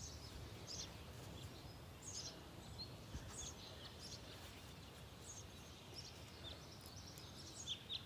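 Faint, short, high-pitched bird chirps scattered every second or so over quiet, low background noise.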